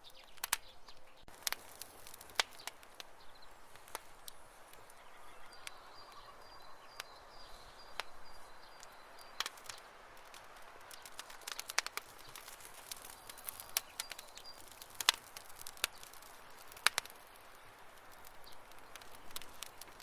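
Campfire wood crackling: irregular sharp pops and snaps over a soft hiss, a few louder pops standing out.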